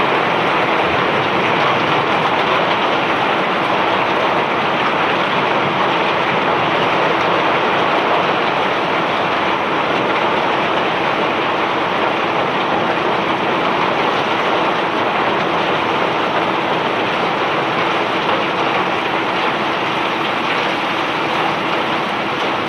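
Self-unloading barge discharging bulk rock cargo: the conveyor runs and loose rock pours off it in a steady rushing noise, with a faint steady hum underneath.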